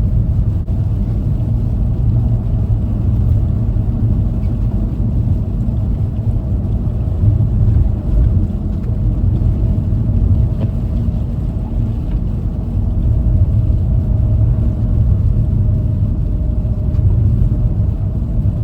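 Steady low rumble of a front-wheel-drive car on winter tyres moving slowly along a snowy road, heard from inside the cabin.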